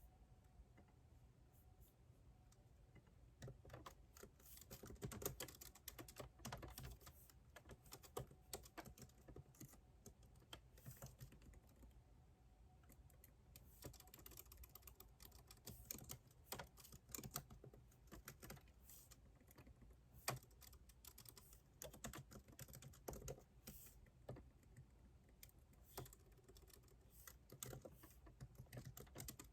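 Typing on a computer keyboard: keys clicking in uneven runs with short pauses between them, starting a few seconds in.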